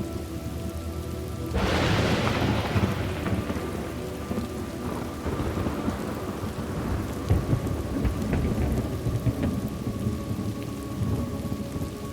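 Steady rain falling, with a clap of thunder about a second and a half in that rumbles away over the next few seconds.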